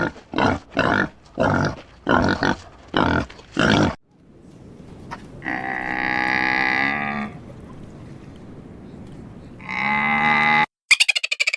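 Bovine mooing: two long, pitched moos, the second shorter. They come after a run of short, even grunts, about two a second.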